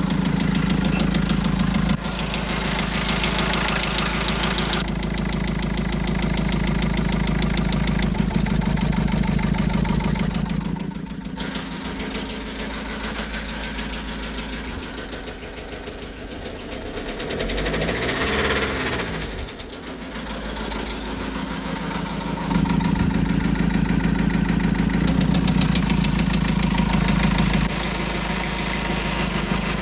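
Vivaro 1.9 diesel engine running with a rhythmic knock, a sign of an engine fault. The sound is fainter for a stretch in the middle and louder again near the end.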